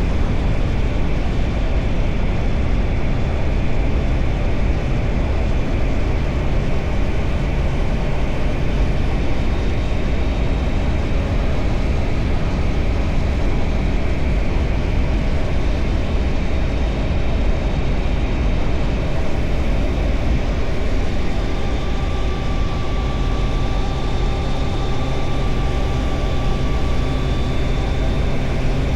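2025 Triumph Tiger Sport 660's three-cylinder engine running at steady road speed under heavy wind rush over the camera microphone. Its engine note stands out more clearly in the last third.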